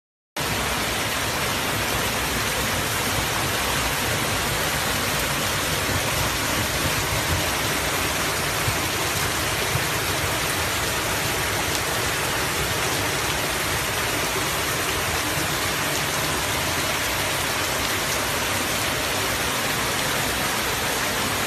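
Heavy rain falling: a steady, even hiss with no let-up, cutting in abruptly just after the start.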